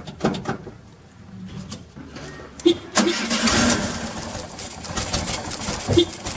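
VW Beetle's fuel-injected, air-cooled flat-four engine is cranked on the starter for about three seconds before it catches and runs. It is slow to start because the coolant temperature sensor is unplugged on a hot engine, which richens the mixture.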